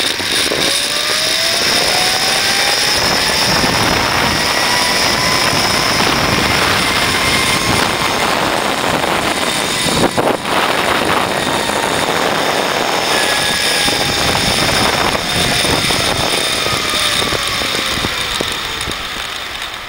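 Zipline trolley pulleys whirring along the steel cable during a ride, with wind rushing past. The whine rises in pitch as the rider picks up speed, holds, then falls as the trolley slows toward the landing.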